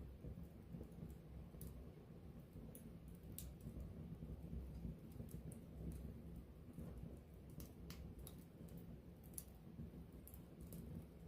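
Wood campfire burning close up: a faint low rumble of the flames with irregular sharp crackles and pops from the burning wood.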